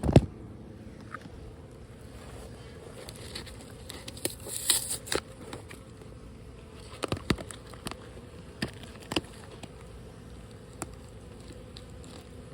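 A honeybee colony buzzing steadily, with scattered sharp knocks and a brief scrape; the loudest knock comes right at the start.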